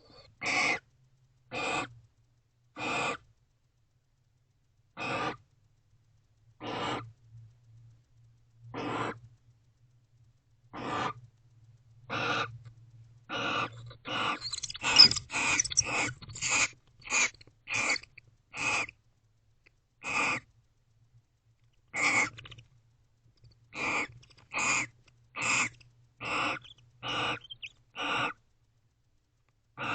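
Barn owls in a nest box giving a series of short, rasping calls, about two dozen in all, spaced out at first, coming quickly one after another in the middle, then spacing out again.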